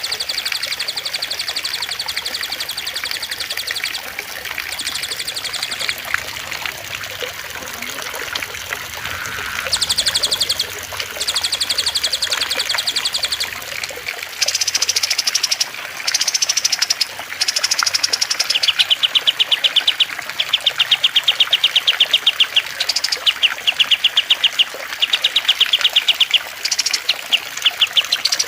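Songs of small cage birds (cililin, kastem and lovebird in a combined masteran recording): fast, high, chattering trills repeated phrase after phrase, the later phrases evenly spaced, over the steady trickle of running water.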